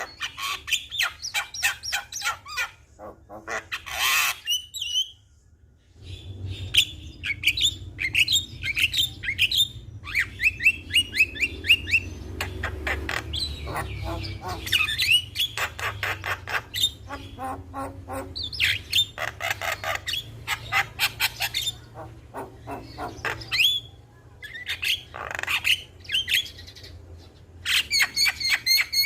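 Javan myna singing: long runs of rapid chattering notes mixed with rising whistles and harsh squawks, with a brief pause about five seconds in. A low hum sits underneath from about six seconds on.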